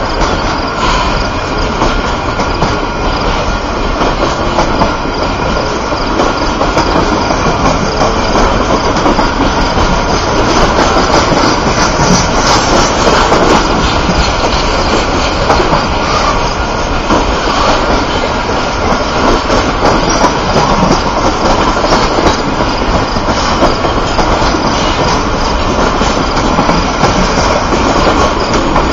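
Triple Crown RoadRailer intermodal trailers rolling past on their rail bogies. There is a loud, steady rumble of steel wheels on rail, with a rapid run of clicks over the rail joints.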